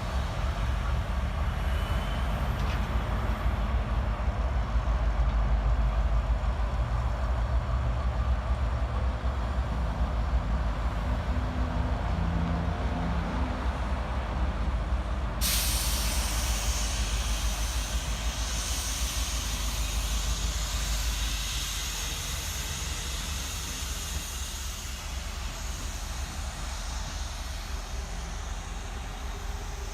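Diesel freight locomotive rumbling close by, then about halfway through a loud hiss of air starts suddenly and keeps going: air being vented from the train's air brakes.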